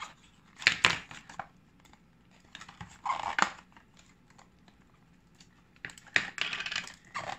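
Packaging being handled in three short spells of clicking, scraping and rustling as a small dip powder jar is worked at, stuck and refusing to come out of its packaging.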